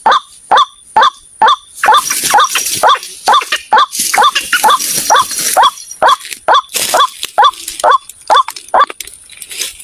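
White-breasted waterhen calling: a steady run of short, rising notes, about two a second, which stop near the end. This is the call used as a lure to draw waterhens into a snare. From about two seconds in, a rough hiss runs under the calls.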